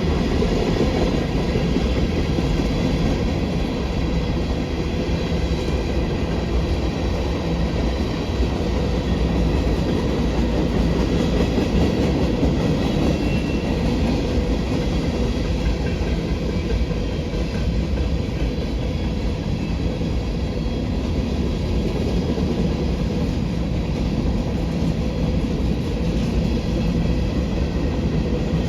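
A train's cars rolling past on the rails: a steady rumble and clatter of steel wheels on track.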